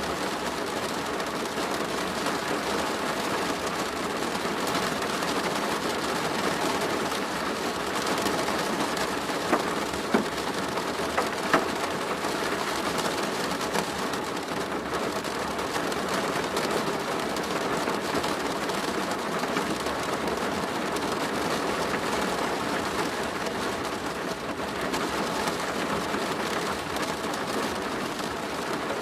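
Steady rain pattering on a plastic roof, with a few sharper, louder drop hits about ten seconds in.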